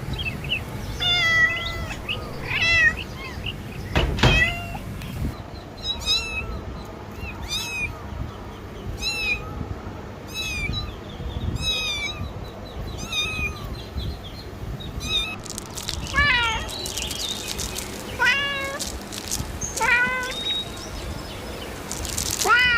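A cat meowing over and over, short high calls about once a second, softer through the middle and louder near the end. A single thump sounds about four seconds in.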